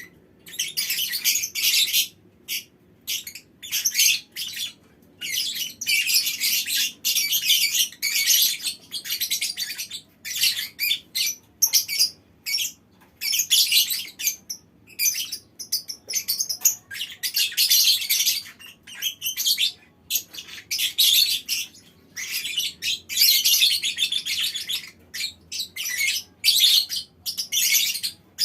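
A colony of lovebirds chattering in shrill, rasping bouts of a second or two with short gaps between, several birds calling over one another.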